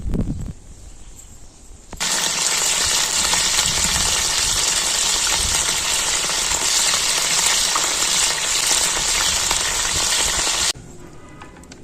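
Food frying in a pan: a loud, steady sizzle that starts abruptly about two seconds in and cuts off abruptly near the end.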